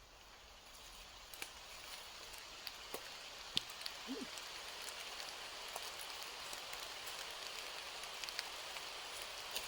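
Rain starting to fall: a hiss of drops that grows steadily louder, with scattered sharp ticks of single drops striking.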